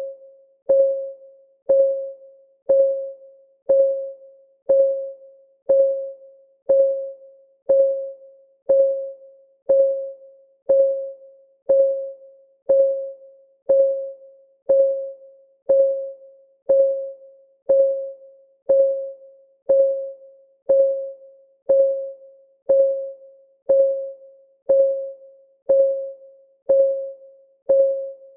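Countdown timer's clock-ticking sound: one tick a second, steady and even, each tick a short pitched click that rings briefly on a single tone.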